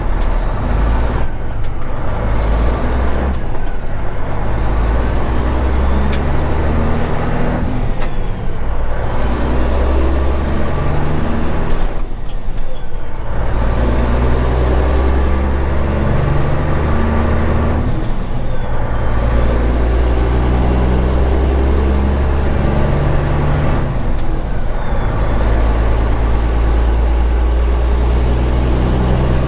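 Straight-piped Caterpillar 3406E diesel pulling through the gears under acceleration. The engine note climbs in each gear and drops away at each shift, roughly every five to six seconds. The aftermarket stage 1 turbo's whistle rises and falls with each gear.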